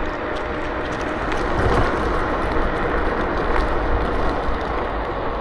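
Steady wind and road noise while riding a KuKirin G2 electric scooter: air rushing over the microphone with tyre rumble, a little louder about two seconds in.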